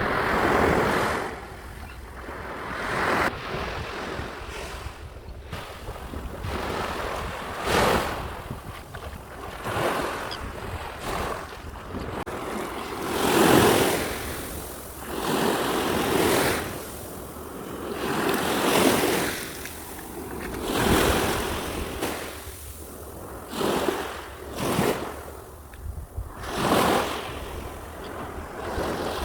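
Black Sea waves breaking and washing ashore, a swell of surf every two to three seconds, over a steady low wind rumble on the microphone.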